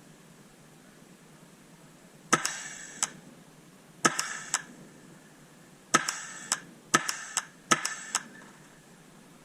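Paintball markers firing, about a dozen sharp pops in quick groups of two or three, each with a brief ringing tail.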